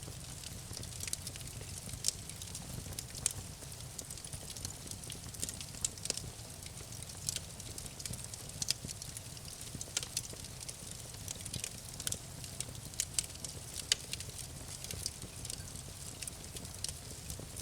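Campfire crackling: sharp, irregular pops and snaps of burning wood over a steady low rumble of the fire.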